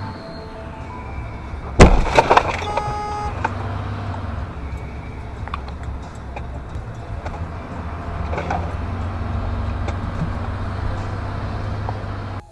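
Vehicle collision recorded on a dashcam: a sudden loud crash about two seconds in, with a few more impacts right after it and a brief tone. Steady low vehicle rumble follows.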